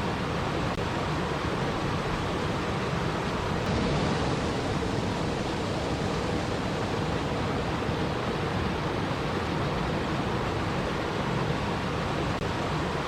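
Steady rushing water, an even, unbroken noise with no pattern in it, changing slightly in tone about four seconds in.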